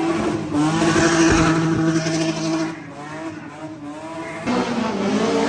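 Car engine held at high revs for a couple of seconds, then easing off, and revved again about four and a half seconds in, its pitch falling near the end.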